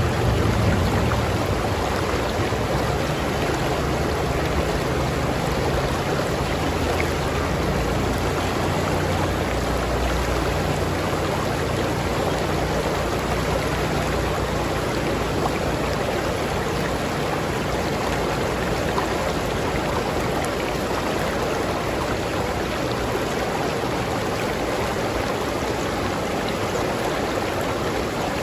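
River water flowing and rushing steadily, with a low rumble underneath for roughly the first half that then fades away.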